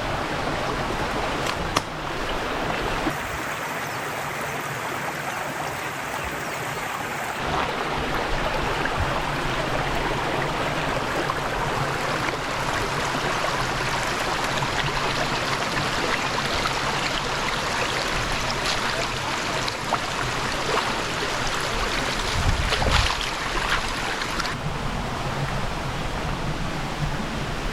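Steady rush of a flowing stream, its tone shifting abruptly a few times.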